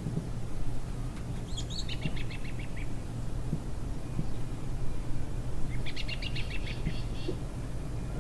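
A bird calling twice, each time a quick run of repeated high chirps lasting a second or so, over a steady low outdoor rumble.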